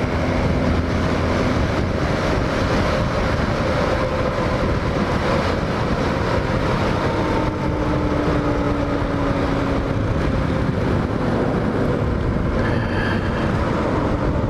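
Hawk 250 motorcycle engine running at a steady road speed, buried in heavy wind rush on the microphone; the engine's tone sinks slowly as the bike eases off.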